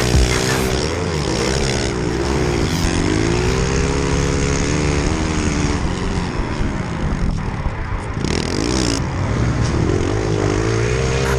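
Small pit-bike motorcycle engines revving, their pitch rising and falling again and again as the throttle opens and closes.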